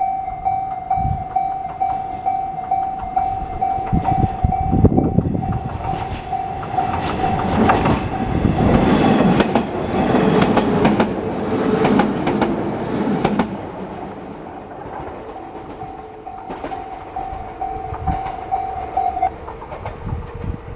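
Japanese level crossing bell ringing in a steady, fast pulse while a 115 series electric multiple unit passes over the crossing, its wheels clacking over the rail joints. The train is loudest in the middle, then fades, and the bell stops near the end.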